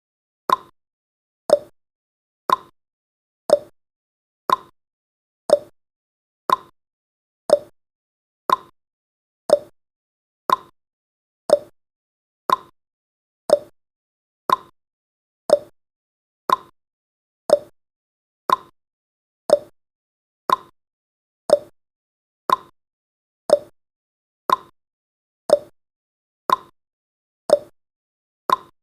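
Clock tick-tock sound effect marking each second of a countdown timer: one sharp tick a second, alternating between a higher and a lower tone.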